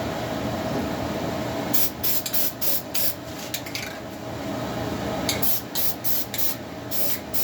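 Aerosol can of high-heat paint spraying: a longer hissing pass, then a series of short spurts from about two seconds in, and another run of spurts near the end.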